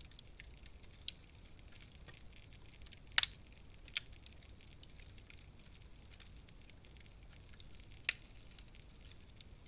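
Wood fire in a fireplace crackling softly, with a few sharp pops: one about a second in, a loud double pop about three seconds in, another just after four seconds and one near the end.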